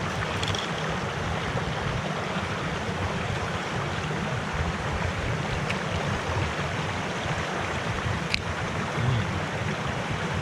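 Mountain stream flowing: a steady, even rush of water, with a single short click about eight seconds in.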